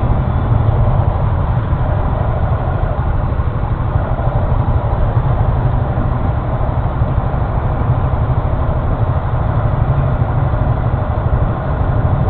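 Steady low rumble of a Honda Forza 350 scooter's single-cylinder engine running, mixed with wind noise on the action-camera microphone.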